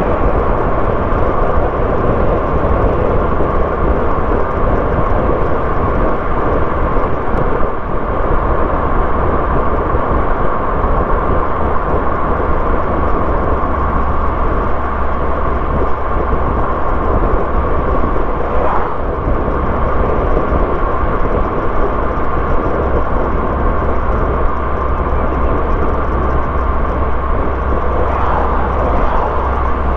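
A car driving along a road: steady tyre and engine noise with a low drone. A brief swell comes about two-thirds of the way through.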